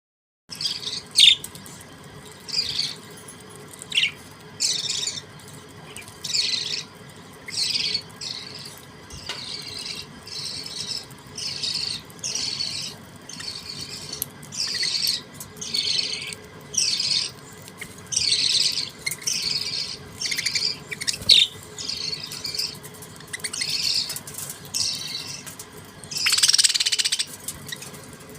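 Budgerigars chirping in short bursts, roughly one a second, with a louder, fuller burst near the end.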